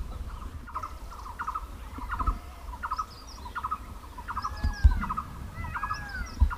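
Birds calling: one repeats a short burst of quick notes over and over, with higher chirps and a few arching whistles over it. A few low bumps on the microphone, the loudest about five seconds in.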